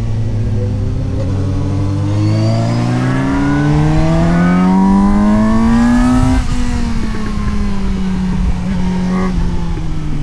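Suzuki GSX-S750's inline-four engine heard onboard, revving up steadily through one gear for about five seconds, then the throttle closes and the pitch drops suddenly and keeps falling slowly as the bike slows on engine braking.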